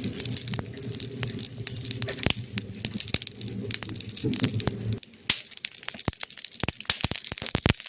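Campfire crackling: burning wood snapping and popping in dense irregular clicks, with one sharp loud pop about five seconds in. A low rumble sits under the crackle for the first five seconds and stops abruptly.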